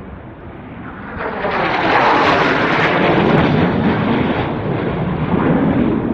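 F-16 fighter jet flying low past. The jet noise swells from about a second in, stays loud for several seconds, then starts to ease near the end.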